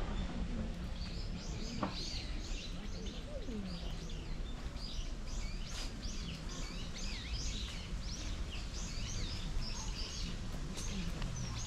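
Small birds chirping: many quick, high chirps one after another over a steady outdoor background noise.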